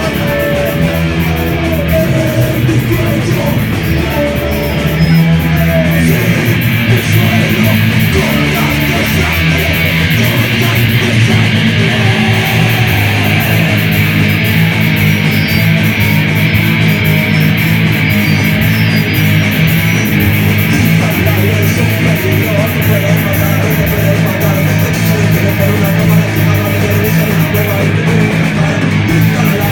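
Rock band playing a loud instrumental passage in a live rehearsal, with guitar over a driving bass line and no vocals.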